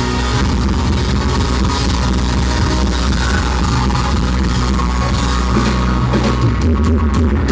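A country band playing live at full volume: drum kit, bass and guitars filling out a song. It is a poor, loud audience recording of the band, with a boomy, crowded low end.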